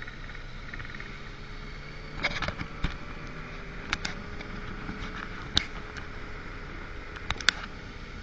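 Motorcycle engine running steadily at low speed, broken by several sharp clicks or knocks, the loudest near the end.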